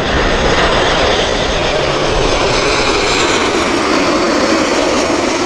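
Jet airliner on final approach passing low overhead: loud, steady engine noise with a faint high whine.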